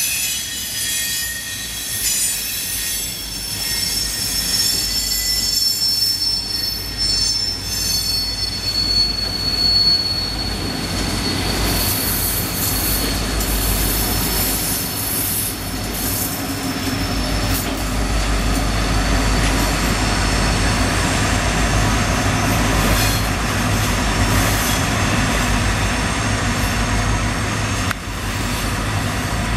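Freight cars rolling past with steel wheels squealing, then South Shore EMD GP38-2 diesel locomotives passing, their engines' low drone taking over in the second half.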